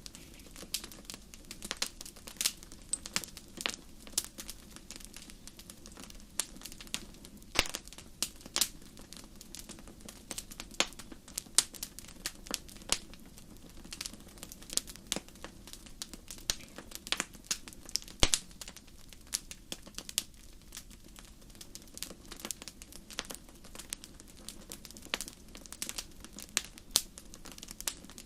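Wood fire crackling in a fireplace: irregular sharp pops and snaps over a low steady rush of the flames.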